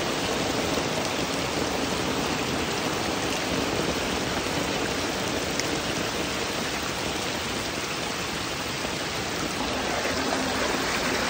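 Heavy rain pouring steadily onto standing floodwater, an even hiss of countless drops hitting the water surface.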